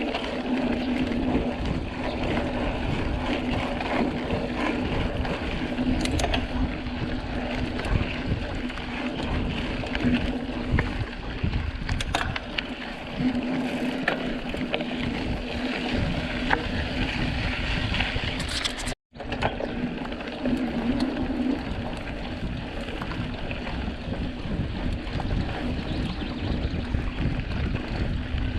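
Mountain bike being ridden: steady wind on the microphone and tyre rumble, with scattered sharp clicks. The sound cuts out completely for a moment about two-thirds of the way through.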